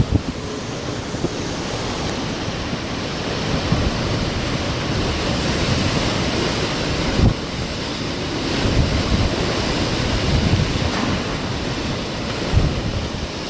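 Hurricane-force wind rushing steadily, with gusts buffeting the microphone in irregular low thumps.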